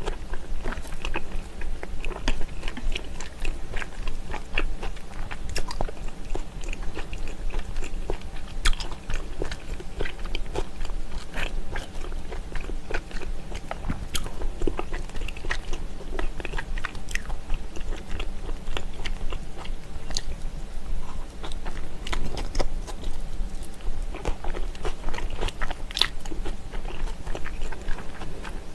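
Close-miked eating of smoked salmon with sliced raw onion: steady chewing and biting with wet mouth sounds and crisp crunches, with light clicks of wooden chopsticks against the wooden board.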